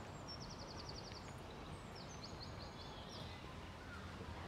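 Steady outdoor background noise with a low rumble, over which a small bird sings two quick trills of high, rapidly repeated notes, the first about half a second in and the second at about two seconds.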